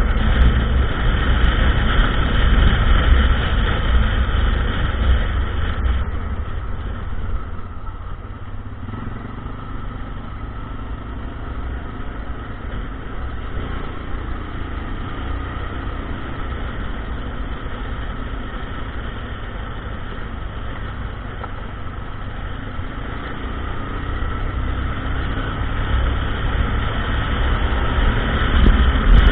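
ATV engine running, easing off and staying quieter from about six seconds in, then picking up again near the end.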